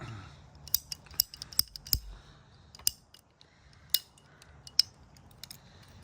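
Irregular sharp clicks and clinks of small hard parts being handled, about a dozen, bunched in the first two seconds and then spaced out.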